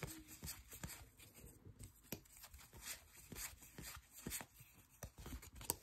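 Faint handling of trading cards: small scattered clicks and flicks as the cards are slid through and sorted by hand.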